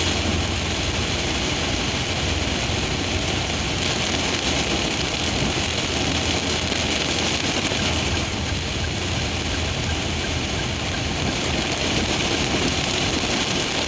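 Steady rain: a continuous even hiss with a low rumble underneath.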